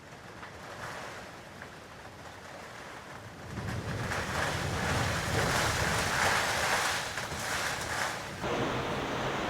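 Gale-force wind gusting, a rushing noise that swells strongly about a third of the way in with a low rumble of wind on the microphone, then drops abruptly to a steadier hiss near the end.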